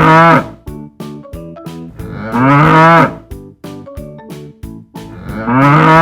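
A bull mooing three times, each a long low call that rises and then falls in pitch, over light background music with plucked notes.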